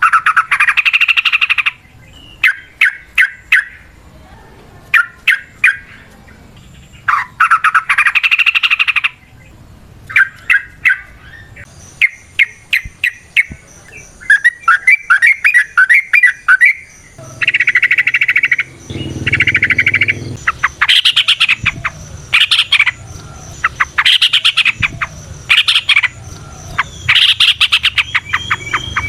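Yellow-vented bulbul singing loudly: rapid chattering runs of a second or two alternate with strings of short, separate chirps.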